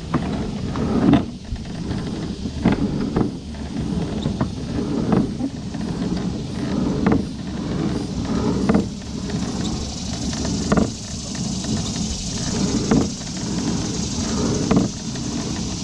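Pedal-drive kayak under way: a steady churning of water and the drive, with uneven knocks about every second or two.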